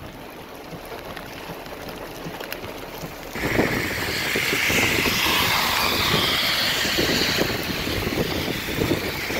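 Soft rain patter heard from inside a car. About three seconds in, it cuts to a loud, steady rushing noise of heavy rain and wind on the microphone, with tyre spray from traffic on the wet highway swelling and fading in the middle.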